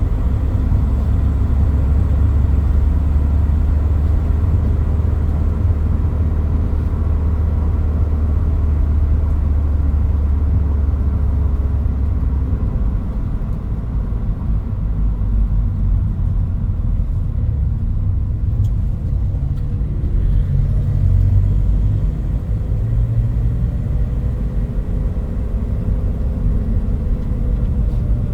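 Toyota Hilux Mighty-X pickup driving, its engine and road noise making a steady deep rumble. After about twelve seconds the rumble turns less even, and the engine note sits somewhat higher later on.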